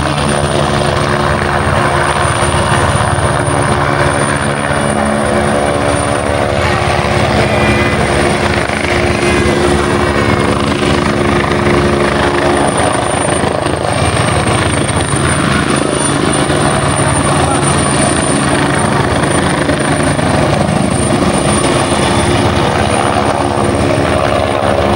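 Helicopter hovering: a continuous, even drone of rotor and engine with a thin, steady high whine over it. The deeper humming tones fade back about halfway through and come up again at the end.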